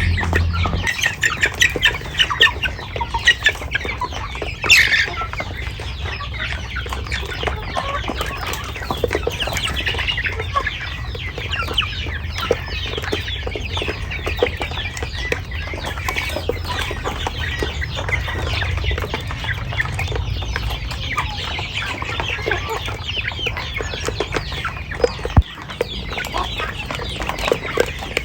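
A flock of laying hens clucking continuously, with many short overlapping calls and one louder sharp sound about five seconds in, over a low steady rumble.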